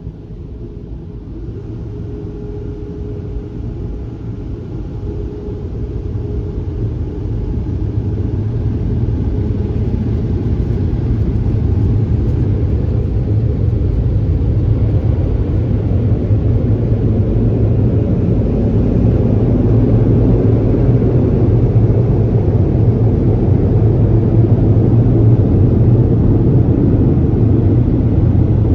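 Automatic car wash air-dryer blowers running, a steady deep rush heard from inside the car that grows louder over the first ten seconds or so, then holds.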